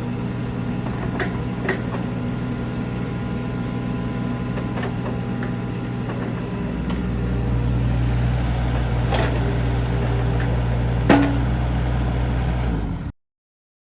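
Kubota U27-4 mini excavator's three-cylinder Kubota diesel running steadily. About halfway through it grows louder, with more low rumble. A few sharp knocks come through, the loudest about eleven seconds in, and the sound cuts off abruptly near the end.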